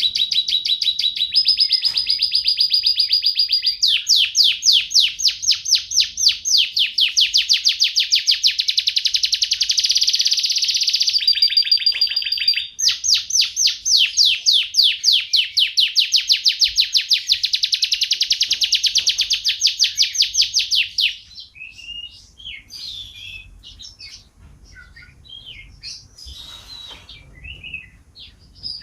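Domestic canary singing long, unbroken rolling trills of rapid repeated notes, its phrases shifting in pitch every few seconds. About twenty seconds in, the rolls stop and the song turns to softer, scattered chirps.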